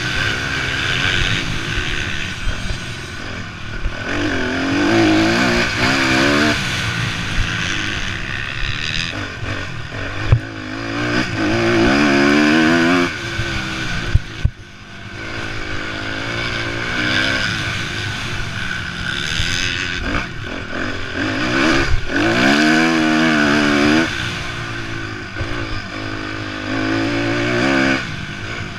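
Motocross motorcycles racing, engines revving up and dropping back again and again as bikes accelerate and shift around the track, with a few sharp knocks along the way.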